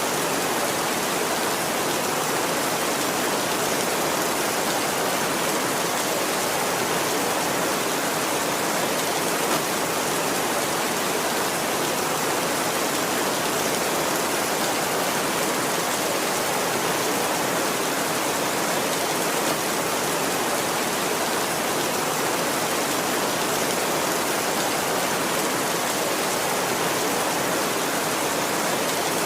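Heavy rain falling steadily on a tin roof, an even, unbroken hiss with no thunder in it.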